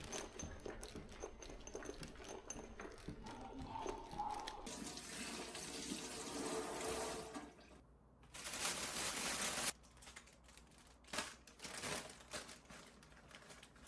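Water running, in two spells of a few seconds each, the second one stopping abruptly, followed by a few short knocks.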